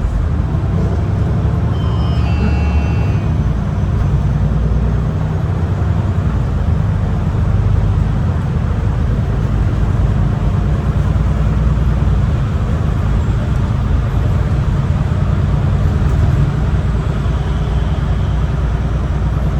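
MAN ND323F Euro 6 bus under way, heard from on board: a steady low engine drone with road and tyre noise. A few faint high-pitched tones sound briefly about two seconds in.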